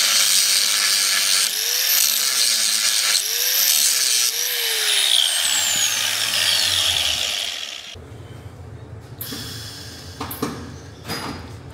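Angle grinder grinding steel on a broken leaf spring, a loud, harsh hiss that stops about eight seconds in, followed by quieter scattered metallic clicks and knocks.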